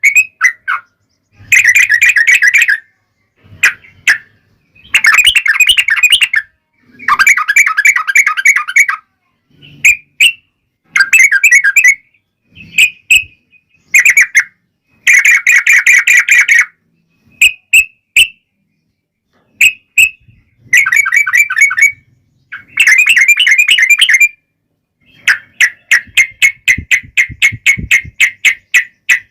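Yellow-vented bulbul (trucukan) song: loud bubbly chattering phrases of one to two seconds, broken by short pauses, and near the end a longer run of quick, evenly spaced notes.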